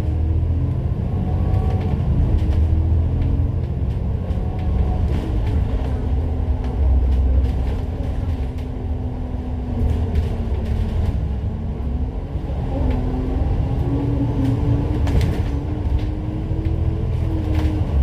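Bus engine and drivetrain heard from on board, a constant low rumble under a whine whose pitch rises and falls as the bus speeds up and slows down, with scattered interior rattles.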